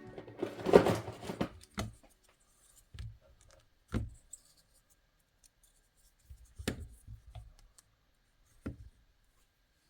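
Hands handling small hard objects: a short rustling cluster of clicks, then single light taps and knocks every second or two.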